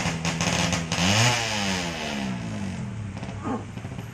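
Ported Suzuki Satria FU motorcycle engine, bored to 200 cc, idling, then blipped once about a second in: the pitch climbs quickly and drops back to idle over the next second.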